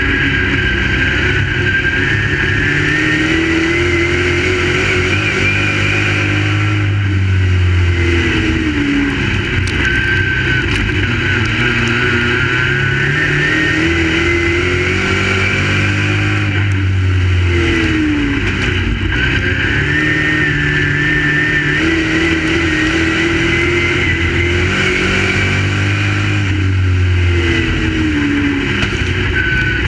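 Crate late model race cars lapping an oval, their V8 engines rising in pitch down the straights and backing off into the turns. The rise and fall repeats about every ten seconds.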